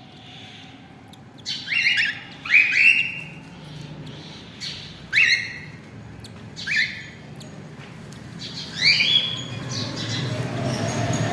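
Cockatiel chick begging while an adult male feeds it: about eight short, rising squawks, mostly in quick pairs, with a rough rustling noise building near the end.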